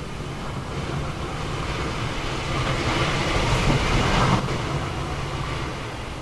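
Train running on the rails with a steady low rumble; a louder rushing noise swells up about two and a half seconds in and cuts off suddenly near four and a half seconds.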